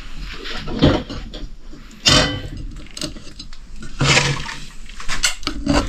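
Pots and utensils being handled: separate clinks and knocks, about a second in, around two and four seconds in, and a quick cluster near the end.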